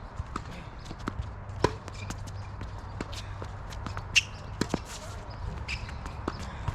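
Tennis ball knocks and bounces mixed with footsteps and shoe scuffs on the court, irregularly spaced, the loudest knocks about one and a half and four seconds in.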